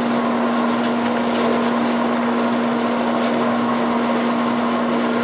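A woodworking machine's electric motor running steadily with a constant hum and an even whir.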